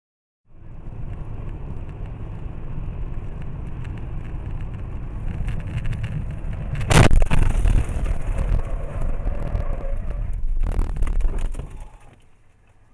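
Car driving, a steady low road-and-engine rumble as heard from inside the vehicle. About halfway through comes one loud, sudden impact, typical of a collision.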